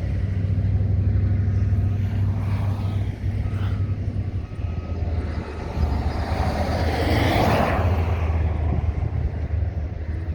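Vehicle engine running steadily with a low hum, with faint intermittent reversing beeps from working machinery. A broad rush of noise rises and fades about seven seconds in.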